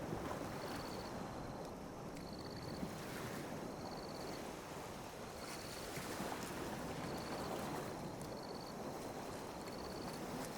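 Small ocean waves lapping and washing on a beach, a steady rushing hiss that swells and eases gently. A short high chirp repeats about once a second throughout.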